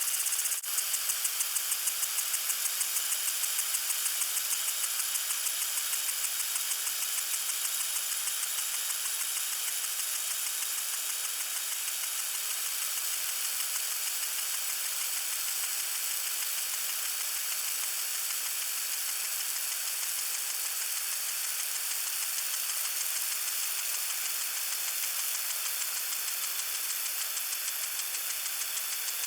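A water sprinkler spraying: a steady, hissy spray with a rapid, even pulsing running through it. A brief click comes about half a second in.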